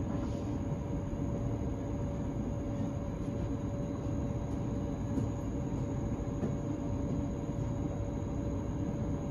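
Steady hum and low rumble of an S-Bahn train standing at a station platform with its onboard equipment running, with a faint steady whine underneath.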